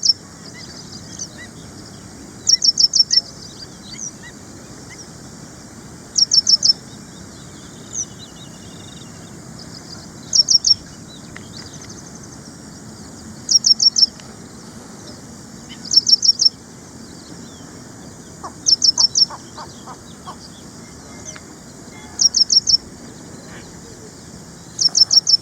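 Ashy prinia singing: short phrases of four or five quick, high, sharp notes, repeated about every three seconds over a steady background hiss.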